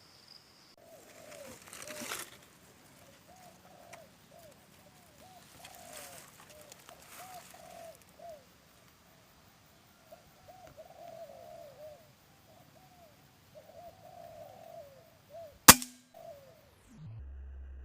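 Spotted doves cooing over and over in short arched notes, then one sharp, loud crack of a PCP air rifle shot near the end, followed by a falling tone.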